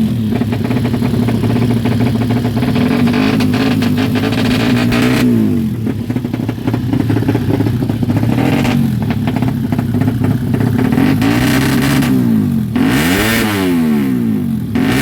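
Honda Karisma's single-cylinder four-stroke engine idling steadily, with the throttle blipped about five seconds in and twice more near the end, the pitch rising and falling back each time.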